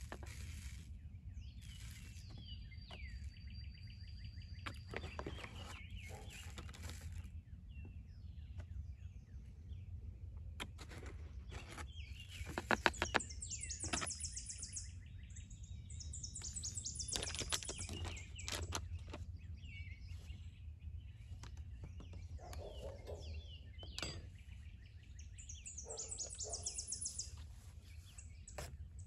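Small birds singing in short, rapid high trills several times, over a steady low background rumble, with scattered knocks and clicks, a quick cluster of them about halfway through.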